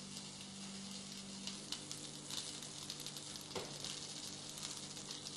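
Rack of lamb searing in extra-virgin olive oil in a frying pan: a faint, steady sizzle, with a low steady hum underneath and a light click about three and a half seconds in.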